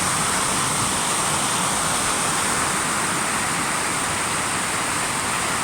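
Waterfall's water rushing in a loud, steady, unchanging stream of noise.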